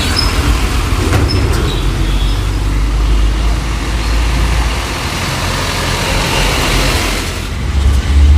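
Heavy truck's diesel-type engine running low and steady as it drives past, with tyre and road noise swelling past the microphone, and the engine rumble surging loudest near the end.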